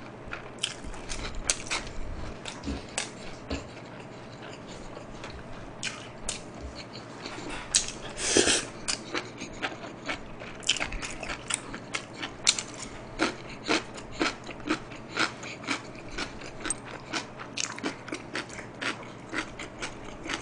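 Close-up chewing of crispy breaded mini pork cutlet: many short, irregular crunches and mouth clicks, with a louder crunch a little before halfway.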